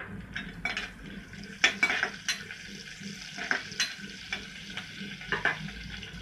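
Chopped green chillies and cumin sizzling in hot oil in a kadhai, with a steel spoon stirring them and clinking against the pan every second or so.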